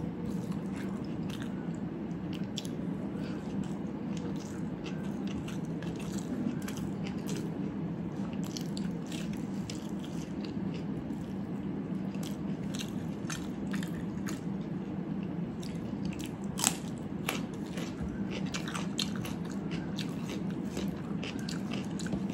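A person chewing and biting food close to the microphone, with many small crisp clicks and crunches and one sharper crunch about three-quarters of the way through, over a steady low hum.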